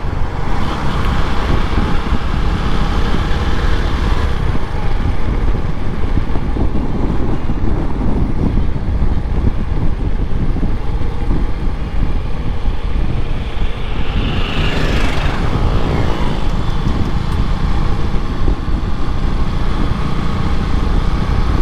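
Steady road noise of a moving motorcycle ride: a dense low rumble, with another vehicle passing about fifteen seconds in.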